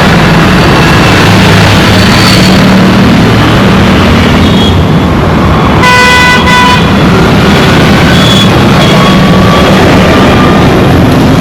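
Dense road traffic: a steady wash of engines and tyre noise with a low engine hum, and vehicle horns honking over it. The loudest horn sounds about six seconds in, a short blast with a brief break in the middle, with fainter honks around it.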